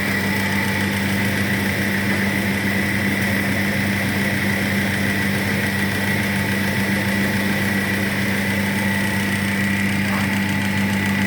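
Stone-pulverizing hammer mill running steadily: an even machine hum with a constant high whine above it.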